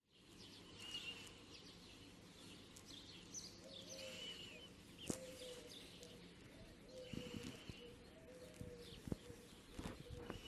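Faint birds chirping outdoors, short calls repeating every few seconds over a faint steady hum, with a few sharp clicks.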